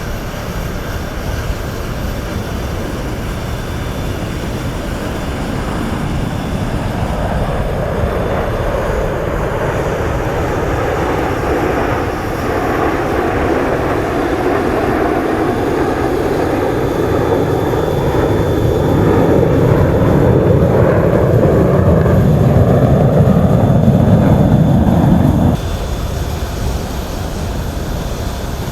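Sukhoi Su-30SM jet fighters flying a display, a steady jet-engine roar growing louder over some twenty seconds, then dropping sharply a few seconds before the end.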